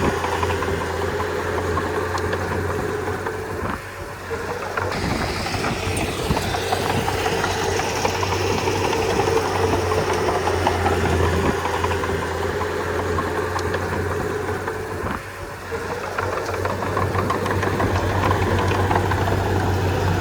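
Crawler bulldozer's diesel engine running steadily. The level dips briefly twice, about four seconds in and again about fifteen seconds in.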